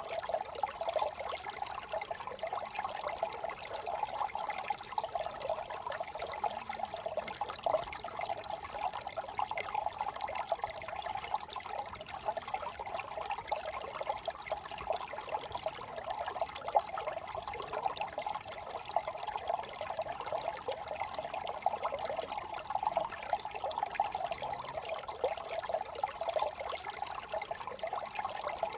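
Shallow brook trickling and babbling steadily over stones, a continuous bubbling water sound.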